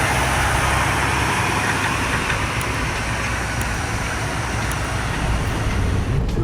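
Heavy truck driving on the road: a steady engine drone under tyre and road noise.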